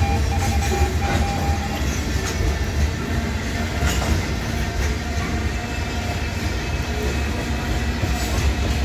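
Freight cars of a long mixed freight train rolling steadily past: a continuous heavy rumble of steel wheels on rail, with occasional sharp clicks from the wheels.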